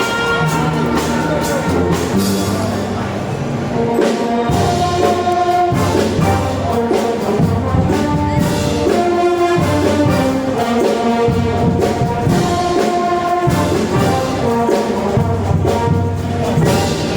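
A Filipino brass band playing an arranged piece, with the brass carrying held chords and melody over a low line that changes every second or so.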